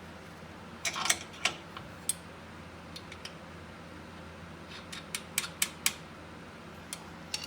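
Sharp metal clicks and clinks of differential mounting bolts and hand tools being handled while the bolts are started by hand, in a few short clusters with a quick run of four or five clicks near the middle. A steady low hum sits underneath.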